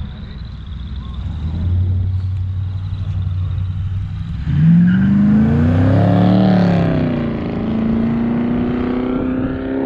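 Car engine running low and steady, then about halfway through rising sharply in pitch as it accelerates, easing back and holding a steady higher note near the end.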